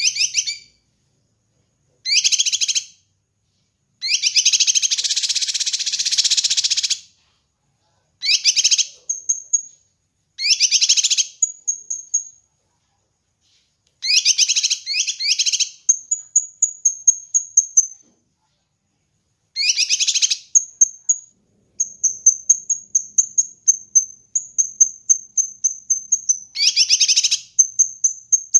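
Kinoi bird singing: short bursts of fast rattling trills broken by pauses, and from about halfway through, long runs of quick, high piping notes.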